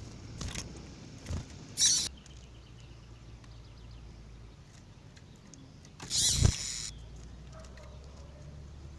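A few brief high chirps from a caged double-collared seedeater over a low steady hum. A louder short noisy burst comes about six seconds in.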